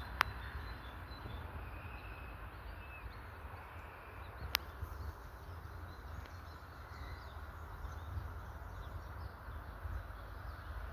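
Outdoor woodland ambience with a low rumble and a few faint, short bird calls. Two sharp clicks come just after the start and about four and a half seconds in.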